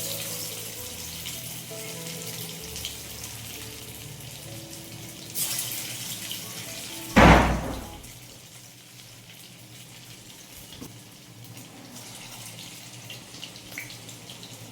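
Water running and splashing in a kitchen sink, with a loud splash about seven seconds in. Soft background music plays over the first few seconds.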